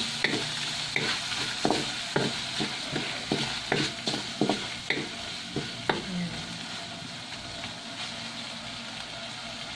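Spaghetti meat sauce sizzling in a metal wok while a wooden spatula stirs and scrapes it, about two scrapes a second for the first six seconds, then steady sizzling alone.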